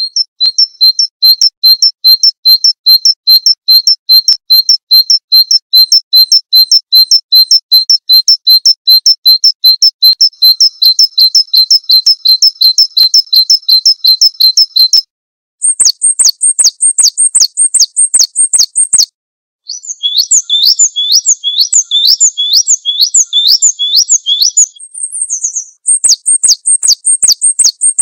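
Small songbirds calling on a recorded tutor track. A long run of rapid repeated high chirps, about four a second, stops abruptly about halfway through. Shorter runs of repeated notes follow, first higher, then lower, then higher again.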